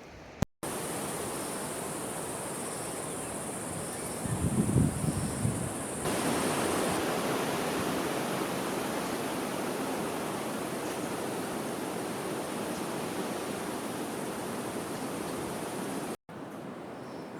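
A steady, even rushing noise with a thin high hiss held above it, with a few low thuds about four to five seconds in. It starts and stops abruptly.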